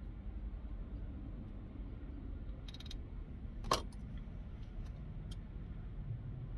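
Low steady rumble of a car idling, heard inside the cabin, with one sharp click about three and a half seconds in and a few faint ticks around it.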